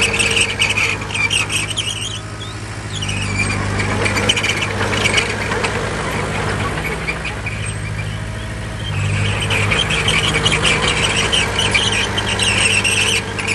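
Crawler bulldozer working, its diesel engine running steadily while the tracks squeal high-pitched over the first couple of seconds and again from about nine to thirteen seconds in, with a light clatter throughout.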